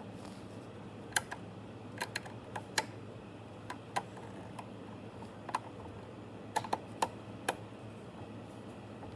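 Irregular sharp clicks and taps, some in quick pairs, as a small screw and a manual screwdriver knock against the metal case of an Ender 3 power supply while the screw is being worked into its hole.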